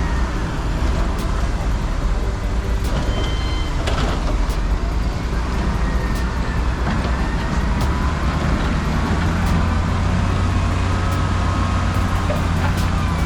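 Road traffic with trucks and cars going past, a steady rumble with rising and falling engine whine.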